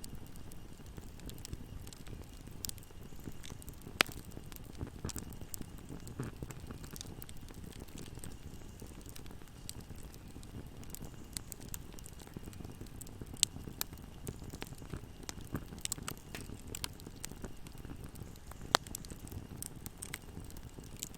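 Wood fire burning in a fireplace: a steady low rumble of flames with scattered crackles and a few sharper, louder pops, one about four seconds in, one about halfway through and one near the end.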